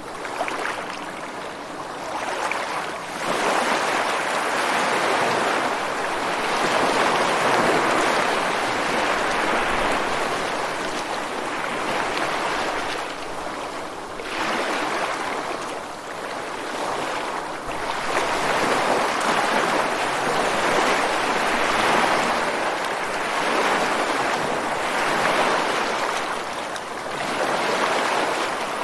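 Ocean surf breaking and washing ashore without pause, swelling and easing in surges a few seconds apart, with a few short lulls between sets.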